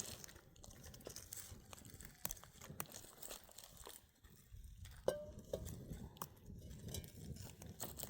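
Dry twigs and brush crunching, snapping and rustling in irregular cracks, with a short squeak about five seconds in.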